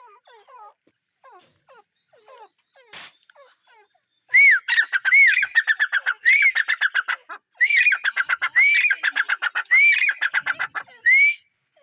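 Grey francolin calling: faint short falling chirps at first, then about four seconds in a loud, fast run of repeated arched whistled notes with a rapid rattle between them, lasting about seven seconds.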